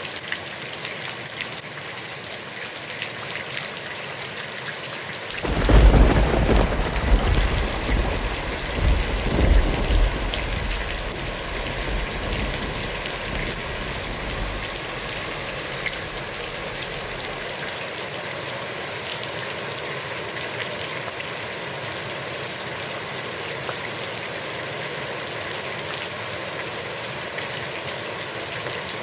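Heavy rain falling steadily on a pond. A clap of thunder breaks in about five seconds in and rolls on in several swells for a few seconds before fading.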